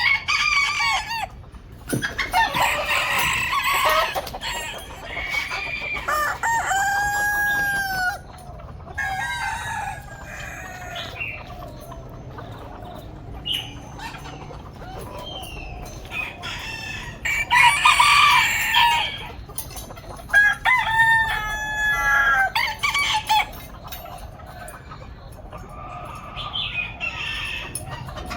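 Ornamental chickens clucking and squawking, with a rooster crowing twice: once about a quarter of the way in and again about three quarters through.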